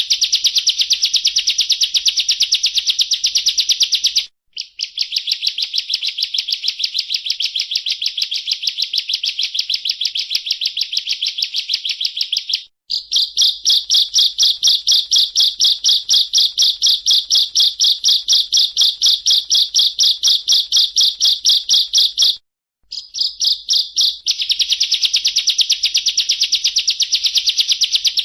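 Bar-winged prinia (ciblek) singing its rapid drilling 'ngebren' song: long trills of fast, evenly repeated high notes, broken by short pauses three times.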